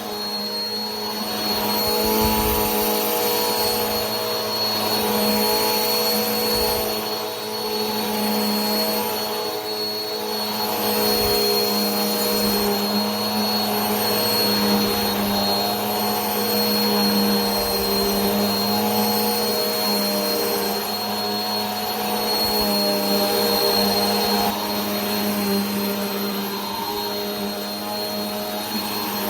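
Vacuum cleaner running continuously: a steady motor hum with a high whine above it and an even rush of air.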